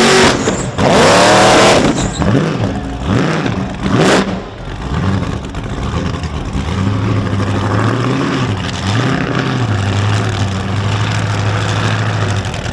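Supercharged V8 burnout car revving hard, loud for the first couple of seconds, then blipped up and down several times before holding a steady rev for the last few seconds.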